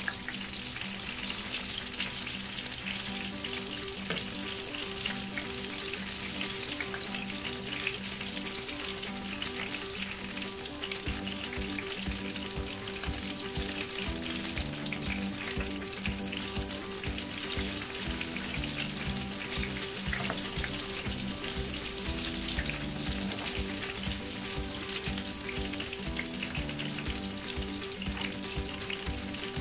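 Akara, fritters of ground bean batter, deep-frying in hot oil in a frying pan: a steady, dense crackling sizzle.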